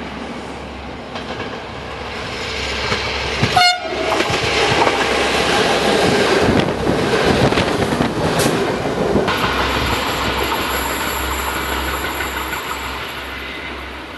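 Regional diesel railcar passing close by: a short horn blast a few seconds in, then the engine and wheels rumbling and clacking over the rails as it goes past, easing off near the end.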